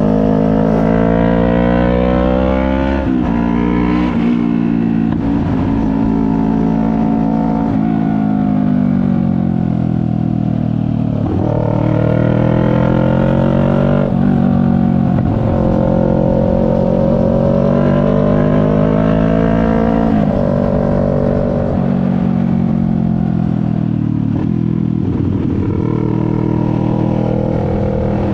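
CFMoto 400NK motorcycle's parallel-twin engine under way, its pitch rising as it pulls through a gear and dropping at each of several gear changes. For the last several seconds it runs steadily at lower revs.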